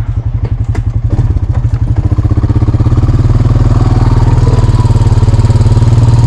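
A vehicle's engine pulls away, growing louder over the first couple of seconds and then running steadily with an even pulsing beat. A few light clicks come near the start.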